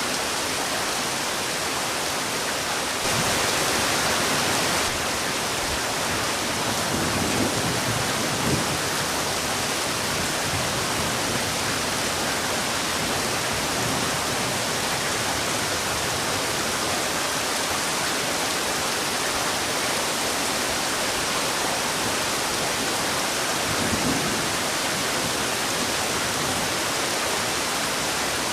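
Heavy rain falling with a steady, even hiss, briefly louder for a couple of seconds about three seconds in.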